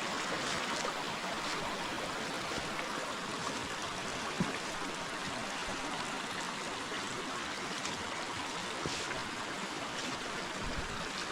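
River water flowing steadily over stones, a constant babbling rush, with one brief soft tap a little under halfway through.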